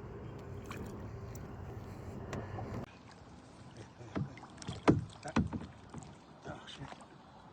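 Kayak on the water: a steady low rumble that cuts off abruptly about three seconds in, then a handful of sharp knocks, the loudest a little before the middle.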